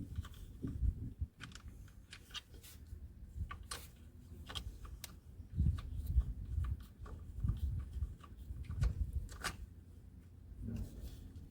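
Scattered clicks, taps and rustling from hands working on the mower's filter area, over an uneven low rumble of handling noise.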